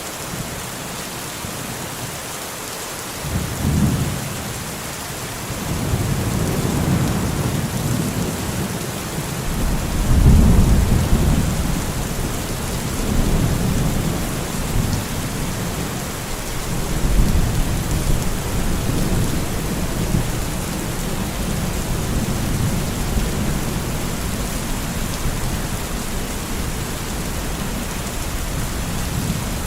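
Steady rain with a thunderstorm: rolling thunder begins rumbling a few seconds in, swells to its loudest about a third of the way through, then eases into a long, lower rumble under the rain.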